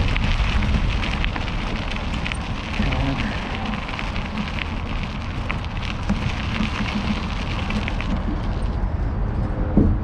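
Mountain bike rolling along, its tyres crackling over the riding surface in a stream of small clicks, over a steady low rumble of wind on the microphone. The crackle thins out about eight seconds in.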